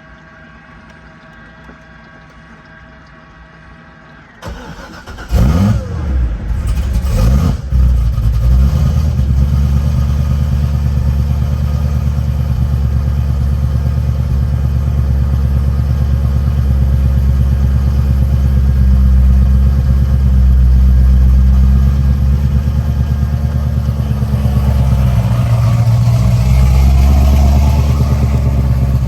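Supercharged LS9 V8 of a C6 Corvette ZR1 with stage 5 heads and cam, cold started: after a few seconds of faint hum it cranks about four seconds in, catches with a loud flare and a second blip, then settles into a loud, steady cold-start idle.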